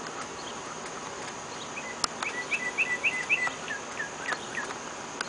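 A songbird singing a quick run of about a dozen short whistled notes, the last few lower in pitch, over the steady high drone of insects.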